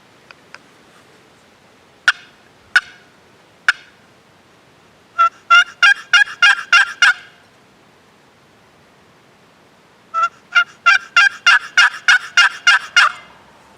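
Turkey hen calls from a hunter's turkey call: three single clucks, then two loud runs of about a dozen quick yelps each.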